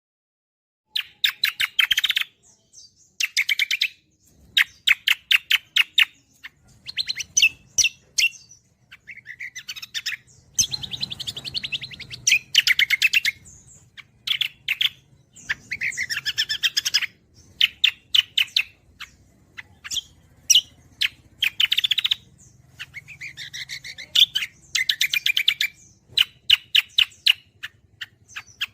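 Cucak kombo singing a fast, chattering song: rapid runs of sharp chips and trills in phrases of one to two seconds with short gaps, starting about a second in.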